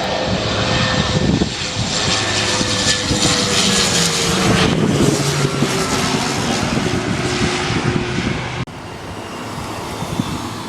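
Jet airliner passing low overhead, its engines a loud roar with a whine that slowly falls in pitch as it goes by. The sound drops off suddenly near the end.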